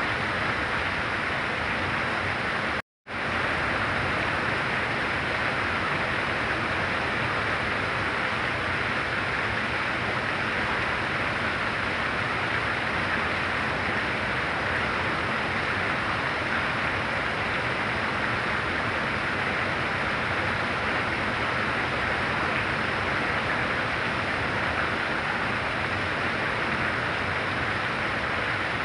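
Very heavy rain falling steadily, a dense even hiss. It drops out to silence for a split second about three seconds in, then carries on unchanged.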